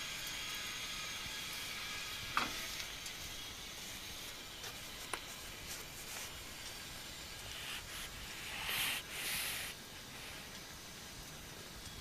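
Vegetable-oil stove burning used tempura oil: a steady hiss and faint sizzle from the flames, with a few sharp ticks and crackles. Near the end come two short, louder rushing swells.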